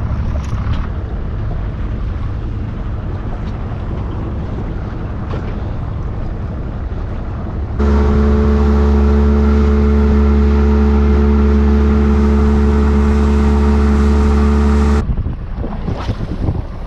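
Small boat's outboard motor running at a steady speed. About halfway through it becomes much louder, a steady droning hum, then cuts off suddenly, leaving wind and water noise.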